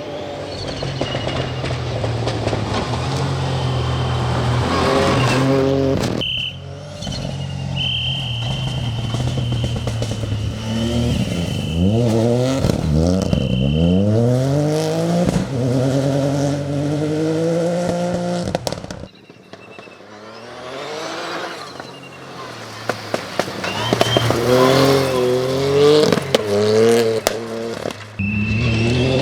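Ford Fiesta R2T rally car's engine revving hard through the gears, its pitch climbing and dropping with each shift, in several short passes cut together.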